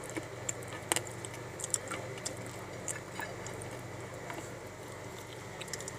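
Chewing and biting into pieces of dry edible clay (soil), giving irregular sharp crunches, about one every half second, over a steady low background hum.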